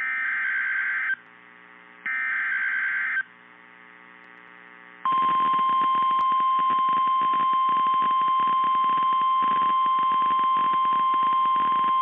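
NOAA Weather Radio Emergency Alert System signal over radio hiss: the last two of three short, warbling SAME data header bursts, about a second each, then about five seconds in the steady 1050 Hz warning alarm tone, which sounds on without a break. It signals an incoming severe thunderstorm warning.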